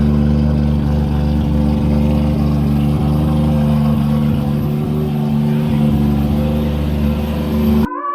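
Three-rotor Mazda rotary engine in a drift MX-5 running at a steady speed with an unchanging pitch, cutting off abruptly near the end.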